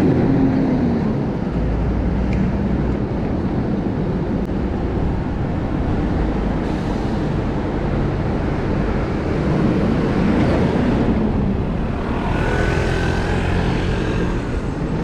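City road traffic heard from a moving bicycle: a steady low rumble of engines and tyres, with wind on the microphone, and a brief faint whine about twelve seconds in.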